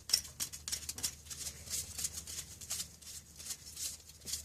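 A part being screwed onto a greased bearing assembly by hand: short, irregular scrapes and clicks, several a second.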